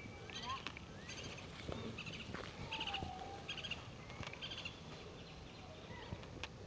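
Birds calling in the trees: short, rapid chattering calls repeated about once a second, with a few brief whistled upslurs in between. A sharp click sounds near the end.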